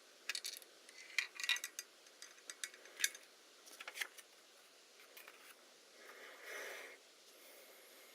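Small metal tools and parts clicking and tapping as they are handled, in scattered single and double clicks, with one soft short whoosh about six seconds in.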